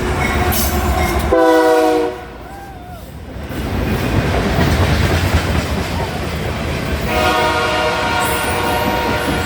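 Train horn sounding twice, a short blast about a second and a half in and a longer one from about seven seconds on, over the continuous running noise of the passing train.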